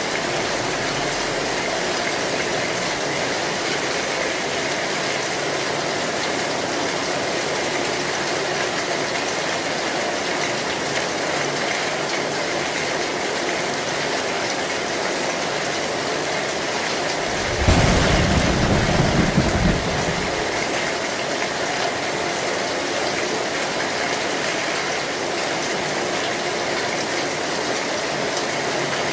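Heavy rain falling steadily on an old metal tin roof. A little past the middle, a clap of thunder lasts about two seconds and is the loudest sound.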